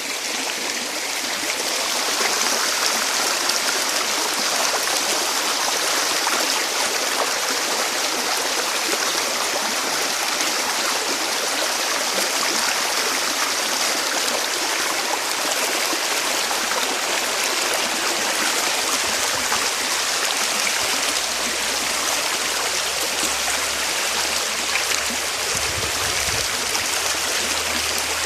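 Flowing stream or small waterfall: a steady, even rush of running water.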